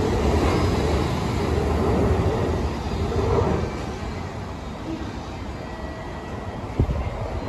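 N700-series Shinkansen train pulling out of the platform. Its last car rolls past with a low rumble that fades away about three and a half seconds in. A single sharp knock comes near the end.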